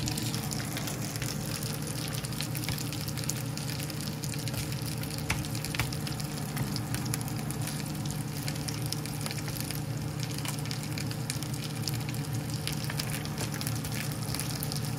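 Chicken pieces frying in a pan: a steady sizzle with frequent small crackles and pops, over a constant low hum.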